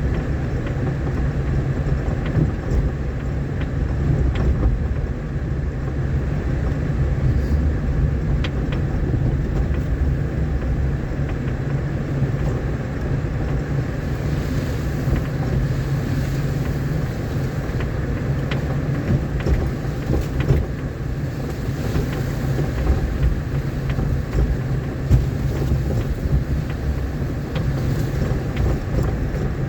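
A vehicle's engine running steadily while driving over a rough, rain-damaged dirt road, with constant road rumble and occasional small knocks and rattles.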